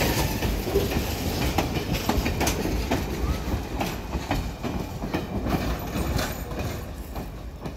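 Passenger train coaches rolling slowly past, their wheels clicking irregularly over rail joints with a low rumble, fading near the end as the last car moves away.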